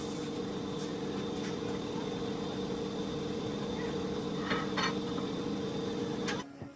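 A machine runs steadily with a hum of several fixed pitches, with a couple of sharp clicks near the end, then cuts off abruptly.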